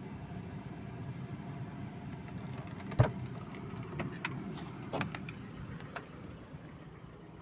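Steady low rumble of a car's engine and road noise heard from inside the moving car, with four sharp knocks about a second apart in the middle, the first the loudest.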